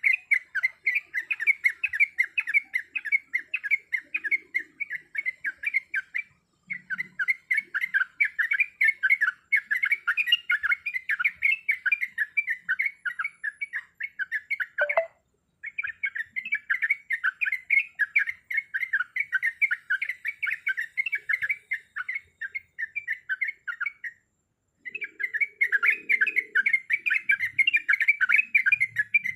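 Yellow-vented bulbul (trucuk) singing a fast chattering song: rapid repeated notes, about five a second, in long bouts broken by short pauses. One brief falling note comes about halfway through.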